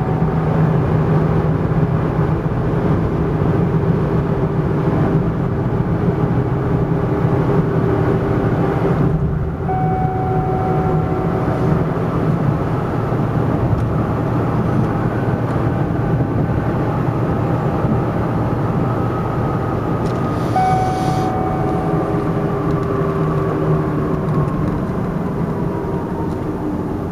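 Rebuilt Cadillac Northstar V8 running steadily, its pitch sliding gently down near the end. A short beep sounds about ten seconds in and again about twenty seconds in.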